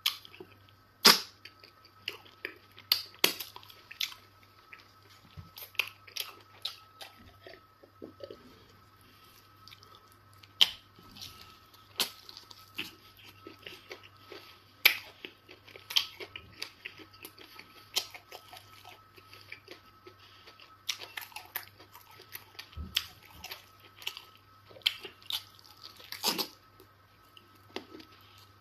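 Close-up chewing of a mouthful of eba with egusi soup, eaten by hand: irregular sharp mouth smacks and clicks, with a faint steady hum underneath.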